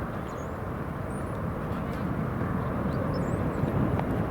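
Jet airliner engines rumbling steadily, slowly growing louder, with faint high chirps above.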